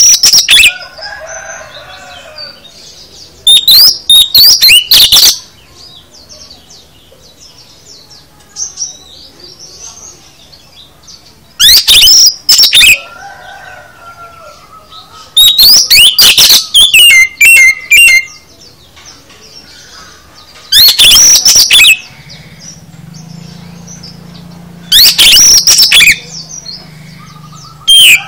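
Oriental magpie-robin (kacer) singing: loud bursts of rapid, varied, high whistled phrases, about six of them a few seconds apart, a song packed with mimicked calls of other birds (isian).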